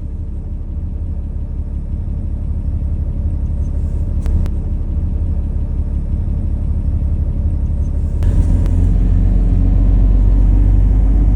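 RAM pickup's Cummins 6.7 inline-six turbo-diesel idling just after a cold start at about 1 °F with no block heater, heard from inside the cab. A steady low drone that grows slightly louder, stepping up in its low end about eight seconds in.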